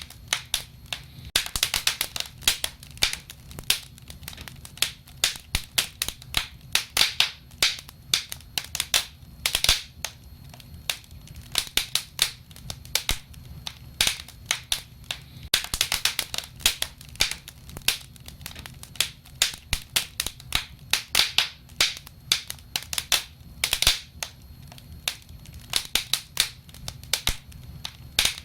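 Wood fire burning, crackling and popping irregularly several times a second over a low steady rumble of flame.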